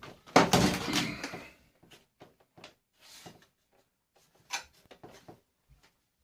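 Plastic parts of a vacuum cleaner being handled during dismantling: one loud plastic clatter about half a second in, then a scatter of small clicks and knocks.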